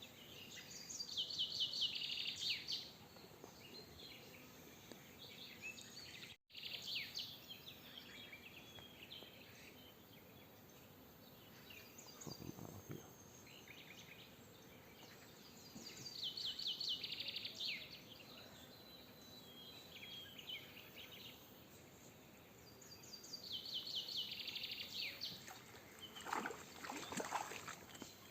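A songbird singing short, rapid trills, one burst every several seconds, over faint outdoor background.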